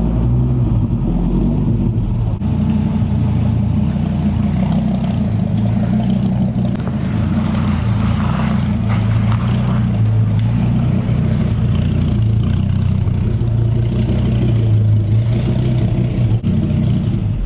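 Dodge Viper RT/10's 8.0-litre V10 engine running steadily at low revs, then shut off near the end.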